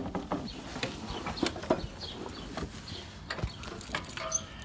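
A key ring jangling and clicking as it is handled, in scattered irregular clicks and light metallic tinkles.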